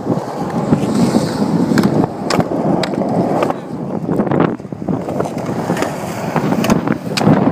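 Skateboard wheels rolling over pavement in a steady rumble, with several sharp clacks of the board scattered through.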